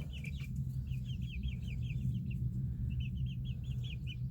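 Young chickens peeping: two quick runs of short, high cheeps, about six a second, with a brief pause between them, over a steady low hum.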